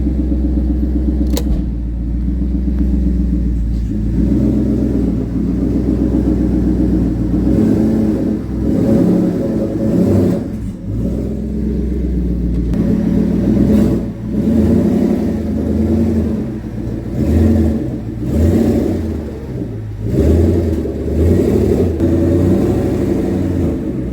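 Twin-turbo 5.0 Coyote V8 of a 2014 Ford Mustang GT running, its sound rising and falling repeatedly with the throttle in the second half.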